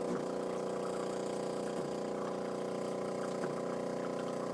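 Jura C9 automatic coffee machine's pump running with a steady buzzing hum while it dispenses from the spout, with a faint tick about every second and a half; it is putting out what appears to be hot water rather than steamed milk.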